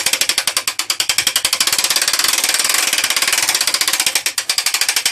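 Hand-cranked ratchet mechanism on a workshop press being wound to raise it: a fast, even run of loud clicks, more than ten a second, that stops abruptly right at the end.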